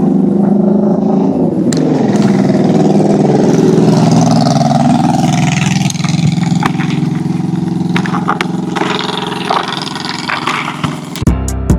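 Honda CRF300 dual-sport motorcycle's single-cylinder engine running at road speed, with wind hiss over it. Strummed guitar music comes in near the end.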